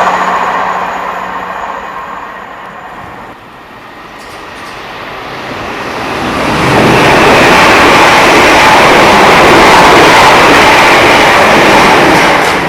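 Trains passing on the line: the rumble of one dies away over the first few seconds, then another grows louder and runs past at full volume from about seven seconds in before dropping away near the end.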